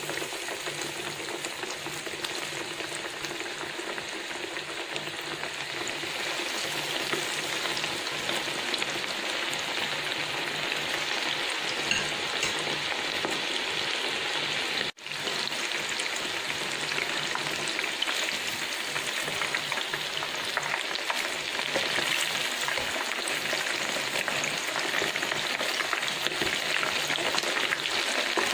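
Breadcrumb-coated chicken schnitzel shallow-frying in hot oil in a pan: a dense, steady sizzle and crackle, with a brief cut-out about halfway through.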